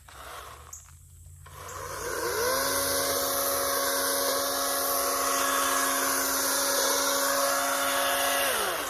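Toro electric chainsaw spinning up about two seconds in, running at a steady speed for several seconds without load, then winding down near the end.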